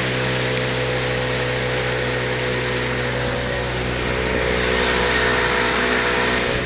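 Motorboat engine running steadily at reduced throttle, with the rush of water and wind over the hull.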